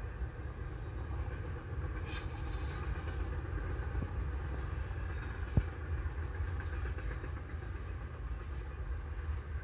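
Freight train rolling past, a steady low rumble of railcars with a faint higher metallic ringing over it. A single sharp click about five and a half seconds in.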